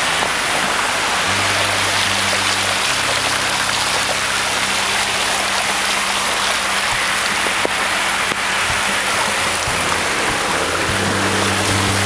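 Steady rushing noise of rain and water as a bicycle rides through a flooded street, its tyres throwing up spray.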